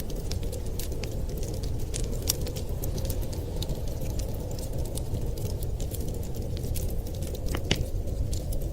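Wood fire crackling, with many small sharp pops at an irregular pace over a steady low rumble of wind.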